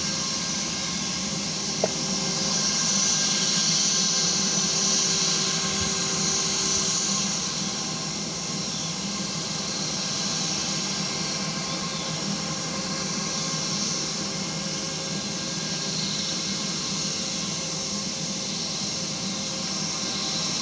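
Jet aircraft engines heard as a steady rushing hiss, swelling a few seconds in and then easing off a little.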